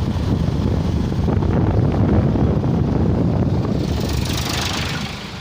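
Wind buffeting the microphone on a moving motorcycle, with the engine and road noise running underneath; a higher hiss rises near the end.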